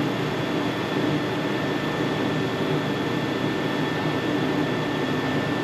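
Steady mechanical whirring hum, with a faint high steady whine that stops near the end.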